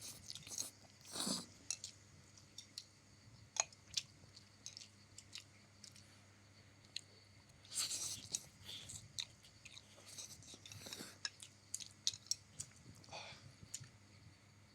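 A person eating egg noodles close to the microphone: chewing and wet mouth clicks, scattered irregularly, with a few louder noisy swells about a second in and around eight seconds in.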